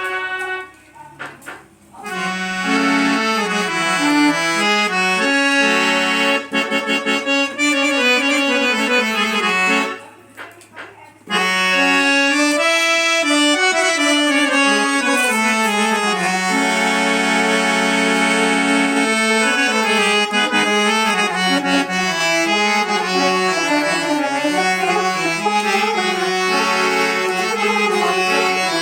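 Harmonium reeds playing a melody over held chords, with two short breaks, one near the start and one about ten seconds in.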